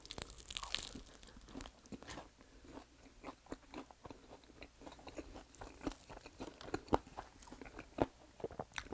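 A person biting into and chewing BBQ maple butter garlic fried chicken: irregular crunches of the sauced coating as he eats.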